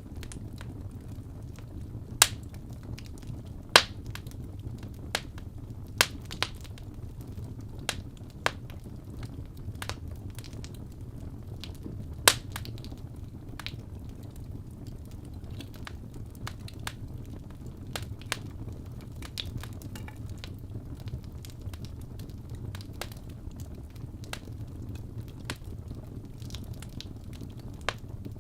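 Wood fire burning in a fireplace: logs crackling and popping at irregular moments, with several sharp loud pops in the first half, over a steady low rumble of the flames.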